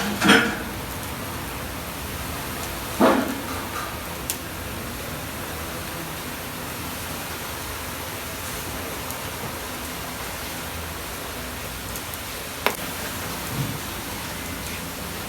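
Steady sizzling hiss of food frying in a cooking pot, with a few sharp knocks of a utensil, the loudest about three seconds in.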